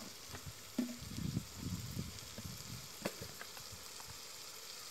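Vegetables frying in oil in a metal kadai over a wood fire, a faint steady sizzle. A few soft low knocks come in the first two seconds, and there is a sharp click about three seconds in.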